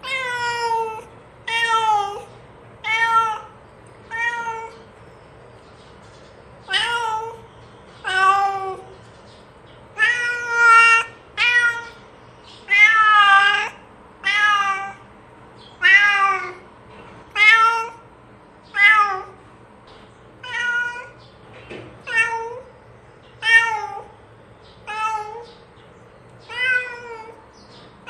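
A cat meowing over and over, about twenty meows roughly a second and a half apart, some longer and drawn out.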